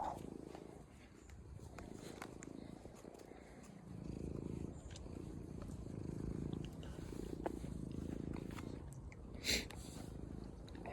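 A street cat purring close by, a low rumble swelling and fading about once a second with its breathing. Small clicks sound now and then, and a brief louder noise comes near the end.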